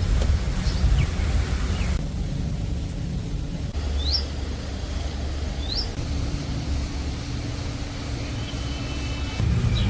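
A steady low rumble of outdoor ambience, with a few short rising bird chirps over it, two of them clear about four and six seconds in.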